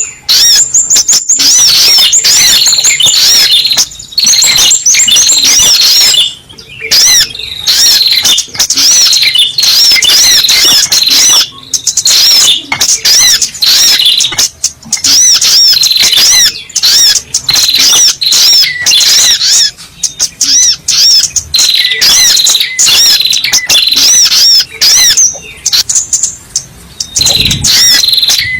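Sogok ontong (spiderhunter) lure-call recording: a loud, fast, continuous series of high chirping notes repeated over and over, with a few brief breaks.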